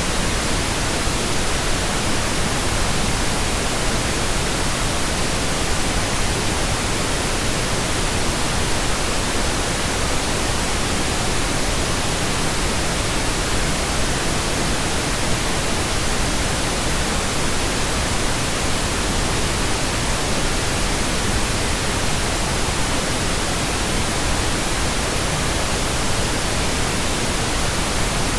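Steady, unchanging pink noise generated by software: an even hiss across all pitches, weighted toward the low end.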